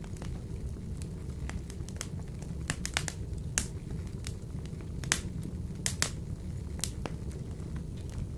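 Wood fire in a wood-burning stove crackling: sharp, irregular pops and snaps over a steady low rumble of the burning logs, with the loudest pops a little past a third of the way in, around the middle, and about three quarters through.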